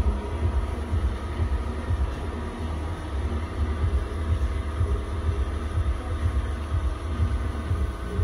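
Toyota Camry's 3.5-litre 2GR-FKS V6 petrol engine idling steadily.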